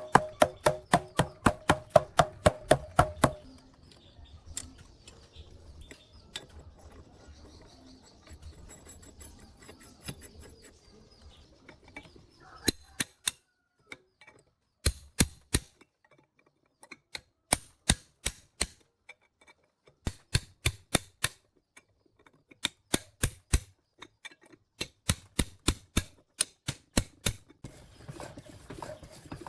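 Quick runs of sharp taps, about seven a second, in bursts of one to three seconds with short pauses between.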